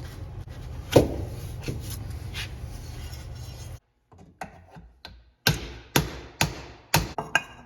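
Metal pipe being hammered to work out damage: a few knocks over a steady low hum, the loudest about a second in, then after a break four sharp strikes about half a second apart.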